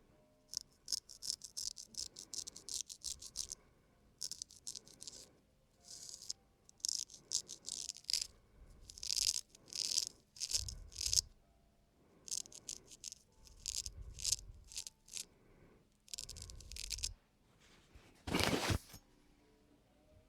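Razor scraping over a man's facial skin in quick short strokes, a dry scratchy rasp that comes in runs with short pauses, as the face is shaved clean. One longer, louder stroke comes near the end.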